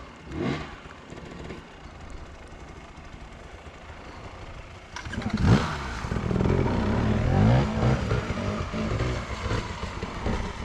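Enduro motorcycle engine that comes in loudly about halfway through, revving up sharply and then running with the revs rising and falling as the throttle is worked.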